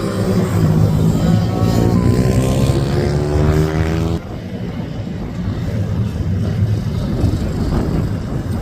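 Racing minibike engine running hard, its pitch climbing as it accelerates. About four seconds in the sound cuts abruptly to a quieter, rougher rush of engine noise.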